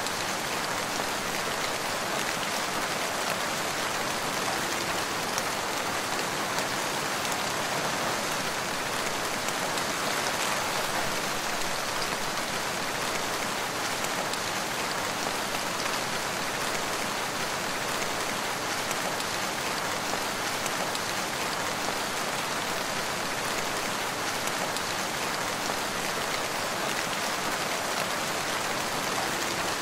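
Steady rain falling, an even hiss with fine drop patter that neither builds nor fades.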